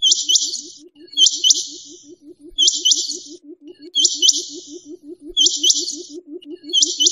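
Quail calling: a sharp two-note call repeated about every second and a half, six times, over a fast, steady low pulsing call.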